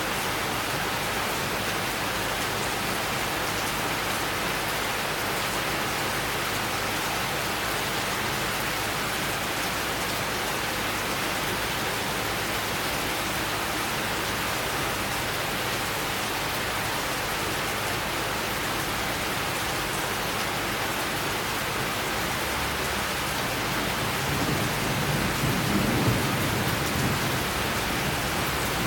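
Steady summer rain falling. Near the end a low roll of thunder builds and swells.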